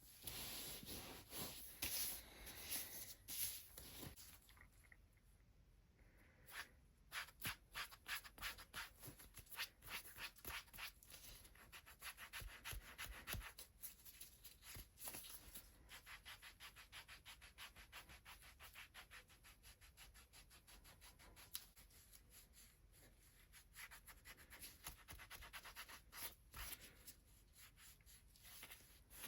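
Hands rubbing and stroking bare feet in a massage: quick, repeated, close-up rubbing strokes on skin, with a quieter pause about four to six seconds in.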